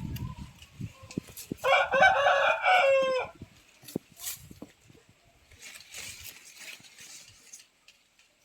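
A rooster crows once, about two seconds in: a single crow of about a second and a half that ends on a falling note. Faint scattered clicks lie around it.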